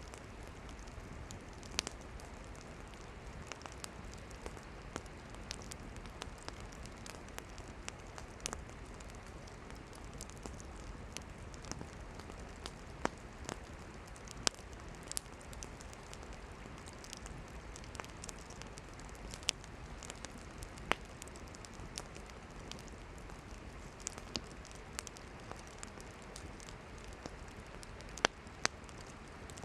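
Campfire of burning firewood crackling: irregular sharp pops and snaps, several a second, over a steady soft hiss, with a few louder pops about halfway through and near the end.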